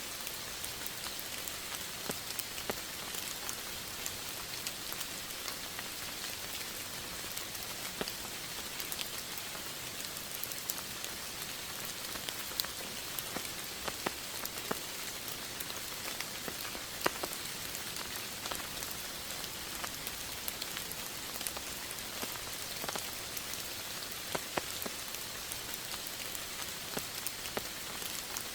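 Steady rain falling, an even hiss with the frequent separate taps of individual drops hitting a surface.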